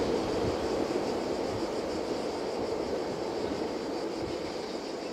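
Container train rolling away along the line, a steady noise of wheels on rails that slowly fades as it recedes.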